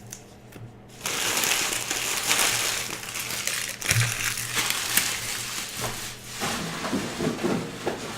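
Plastic baseball card pack wrapper being torn open and crinkled by hand, a loud crackling rustle that starts about a second in.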